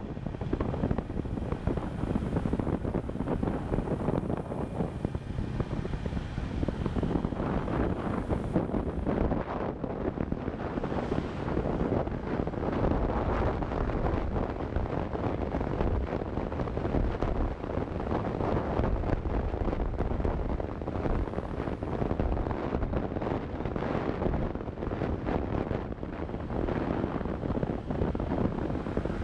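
Wind rushing over the microphone of a camera riding on a moving motorcycle, over the steady drone of the motorcycle's engine and tyres on the road.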